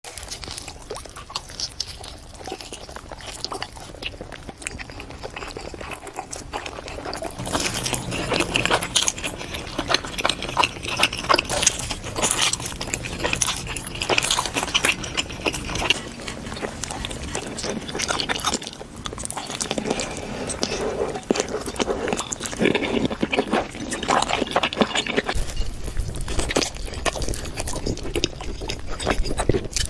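Close-miked eating of pepperoni pizza: bites into the crust and cheese, with crunching and wet chewing and mouth sounds in dense rapid clicks and crackles.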